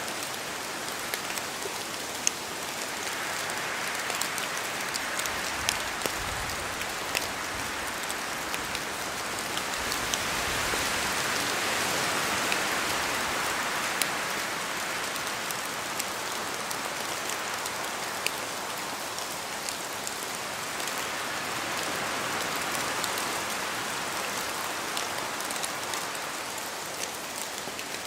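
Steady rain in a forest, with scattered sharp drips of drops falling from the trees. The hiss swells and eases slowly every several seconds as wind gusts move through, strongest about halfway through.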